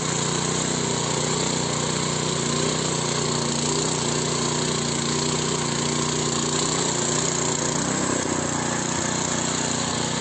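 Small petrol garden cultivator (mini-tiller) engine running steadily under load as its tines churn through the soil.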